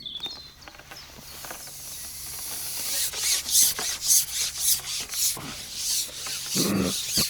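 A carbon fishing pole sliding back over a pole roller or along the hands as it is shipped in, a rough rubbing hiss in repeated strokes, about two a second, that begin about three seconds in.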